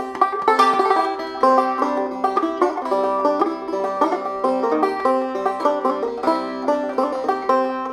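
Banjo music: a fast run of plucked notes in a bluegrass style.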